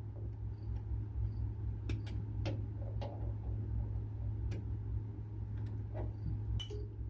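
A few light clicks and knocks from hands-on work under the truck, scattered and irregular, over a steady low hum.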